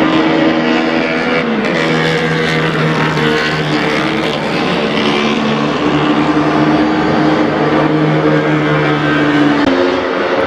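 Vintage pre-1972 racing motorcycle engines running at speed, with several steady engine notes at once. The note steps down in pitch about one and a half seconds in and shifts again near the end.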